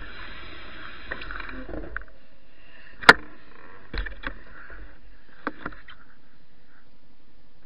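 Bicycle riding noise with rapid ticking that stops about two seconds in. Then a single loud, sharp click and a few softer knocks.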